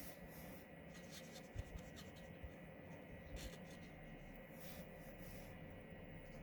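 Faint strokes of a Stampin' Blends alcohol marker's broad tip rubbing over cardstock, blending a light shade into darker shading, with a few soft bumps.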